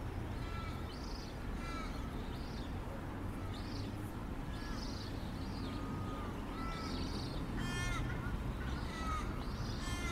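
Several birds calling repeatedly, some in harsh crow-like caws and some in quick rattling series of notes, over a steady low rumble.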